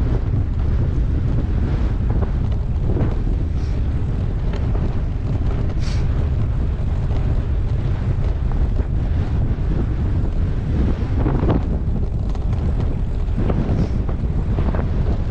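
Strong wind buffeting a GoPro Hero8's microphone while riding a gravel bike, a steady low rumble with a few brief knocks and rattles from the bike.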